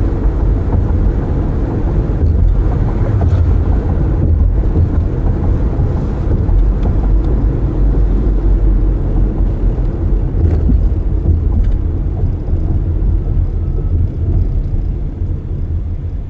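Car driving with its windows open: a steady low rumble of tyre and wind noise, easing a little near the end.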